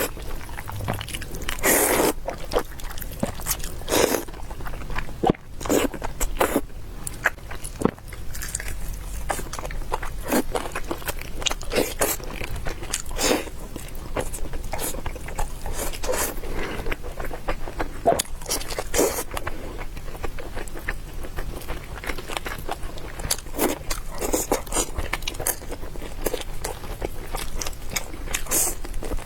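Close-miked eating: irregular bites and crunches with chewing and the odd scrape, repeating throughout.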